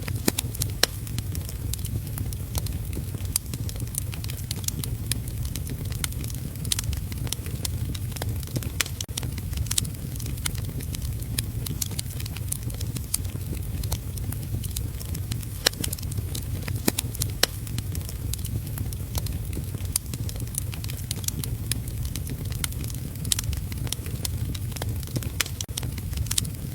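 Wood fire crackling, with frequent irregular sharp pops and snaps over a steady low rumble, mixed with heavy rain.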